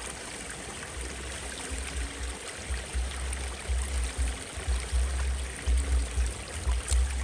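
Steady rushing water noise, with deep, uneven low thumps coming and going from about a second in.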